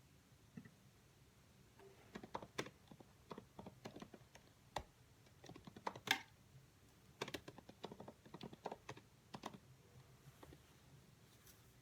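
Typing on a computer keyboard: quiet, irregular key clicks in short runs, starting about two seconds in and dying away near the end.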